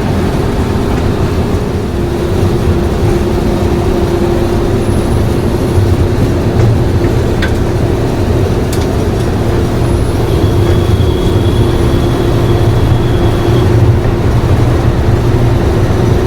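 Class 37 diesel locomotive's English Electric 12CSVT V12 engine running loud and steady on the move, with a steady whine that comes in about two seconds in.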